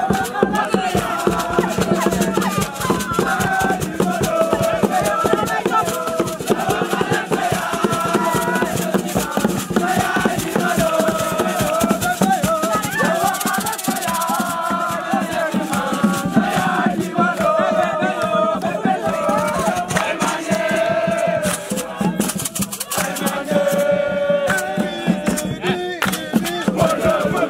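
A group of voices singing a song over a fast beat of shaken rattle percussion.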